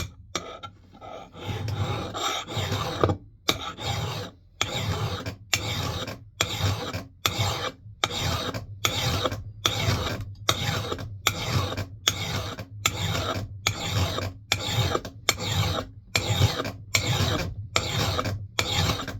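Hand file rasping across the steel edge of an axe bit in steady, even strokes, a bit under two a second, sharpening it to raise a burr along the edge.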